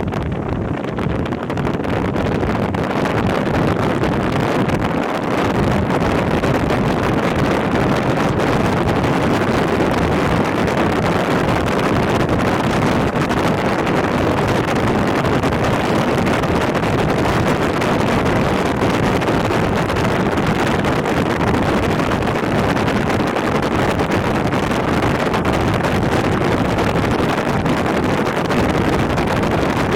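Hokuso Railway 7260 series electric train under way, heard from inside the car: a steady rumble of wheels on rail and rushing air. It grows a little louder over the first couple of seconds and then holds level.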